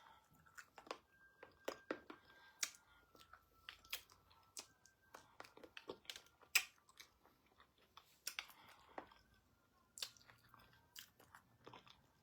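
Close-up eating sounds: a person chewing pounded yam with ogbono soup and meat, with wet mouth smacks and clicks coming irregularly.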